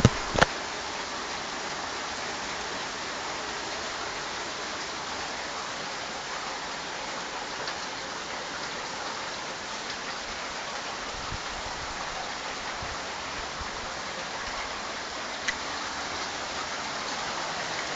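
Torrential rain pouring down in a steady, even hiss, with one sharp click about half a second in.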